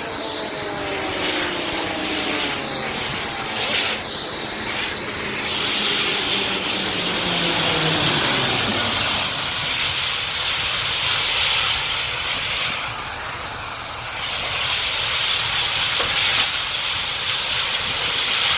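Steady loud hissing of compressed natural gas escaping from the burnt-through fuel line of a burning CNG garbage truck. A separate falling whine winds down through the first half.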